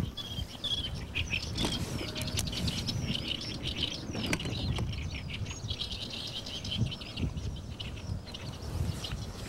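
Small birds chirping and chattering in quick repeated calls, over the low rumble of wind on the microphone, with a few light clicks.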